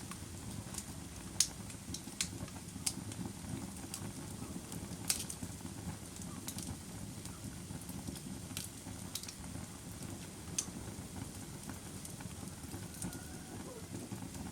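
Fire crackling: a steady low rumble of flames with irregular sharp pops and snaps, the loudest pops about a second and a half in and about five seconds in.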